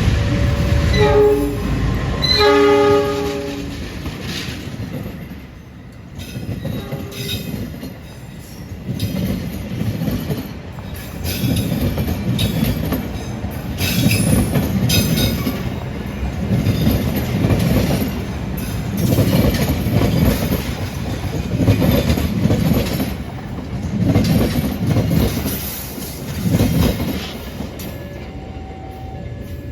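A train sounds its horn in the first few seconds, then runs past, its wheels clattering over the rail joints in a regular beat of loud pulses about every two seconds.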